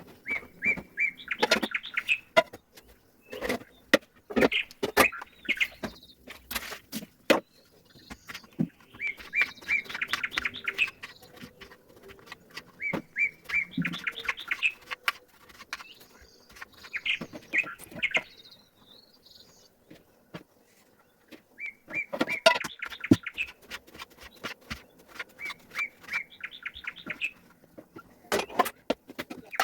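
Birds chirping in short runs of rapid twittering every few seconds, with sharp clicks and knocks scattered throughout.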